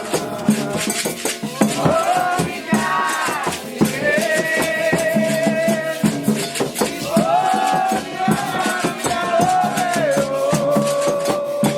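Candomblé xirê music: voices singing long held lines in chorus over steady percussion with shaken rattles.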